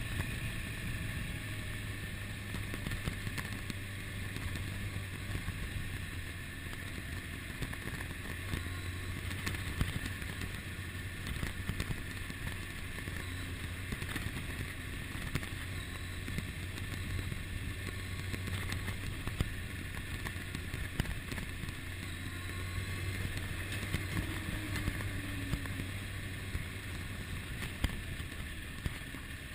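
A Kawasaki ZX-6R's 600cc inline-four engine running steadily under way, with wind and road noise.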